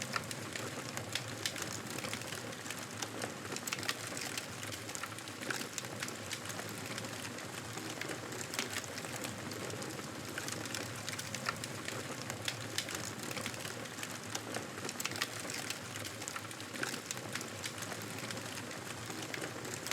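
Wood fire crackling in a fireplace: irregular pops and snaps over a steady hiss.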